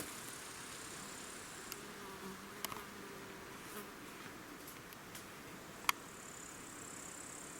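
A flying insect buzzing, a low hum that passes about two seconds in, over a steady high-pitched insect hiss. Two sharp clicks are also heard.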